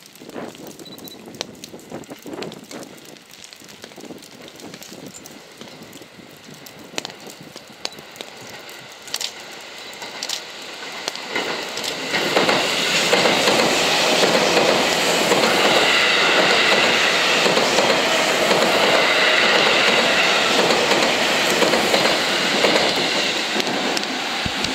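Seibu 9000-series electric commuter train pulling out and running past close by. It is fairly quiet at first, with scattered light ticks. From about twelve seconds in, the train's running noise and the clatter of wheels over rail joints take over, loud and steady, then ease slightly near the end.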